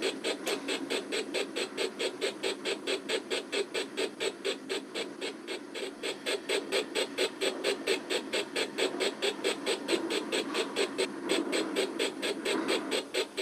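Model steam locomotive's sound-decoder chuffing, a steady, even beat of about five chuffs a second, with the locomotive's running noise beneath it.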